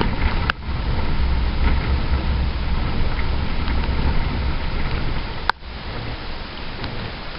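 Truck driving, heard from inside the cab: a steady low rumble of engine and road noise. A sharp click comes about half a second in and another near the end, after which the noise gets quieter.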